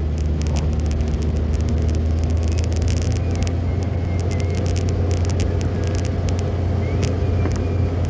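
A car driving on the road, with a steady low drone of engine and road noise and scattered sharp ticks throughout.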